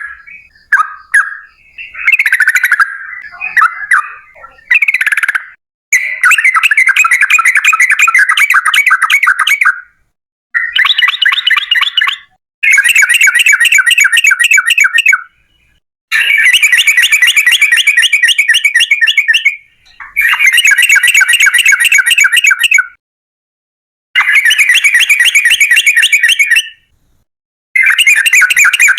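Yellow-vented bulbul song: a few short chattering phrases, then long runs of fast repeated notes, each run lasting three to four seconds with brief silent gaps between them.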